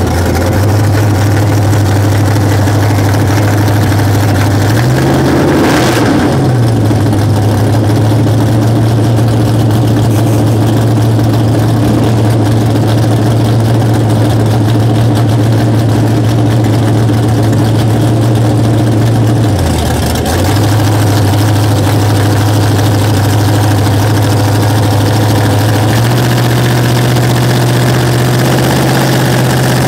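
Drag car engine idling loudly and steadily at the starting line, with a deep, even hum. It revs up briefly about five seconds in, sags for a moment around twenty seconds, and idles higher for the last few seconds before launch.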